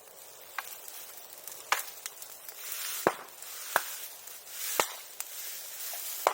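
Bonfire of bamboo and bamboo grass burning with a steady hiss that swells and fades. About seven sharp pops sound at uneven intervals as the bamboo bursts in the heat.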